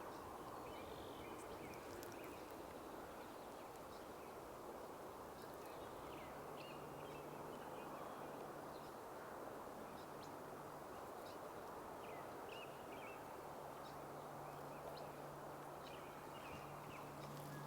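Faint outdoor background: a steady hiss with scattered faint, short bird chirps. A low steady hum comes in about six seconds in.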